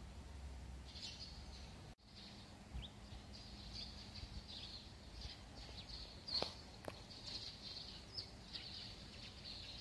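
Small birds chirping outdoors in many short, high notes over faint background noise. The sound drops out for an instant about two seconds in, and two sharp clicks come just past the middle.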